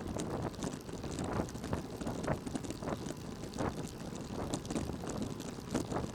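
Road and wind noise of a moving vehicle heard from the cabin, steady, with scattered small knocks and rattles.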